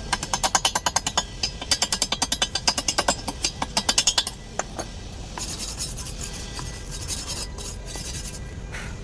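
Rapid rhythmic scraping strokes on metal, about nine a second for some four seconds with a short break, then a briefer steadier rasp.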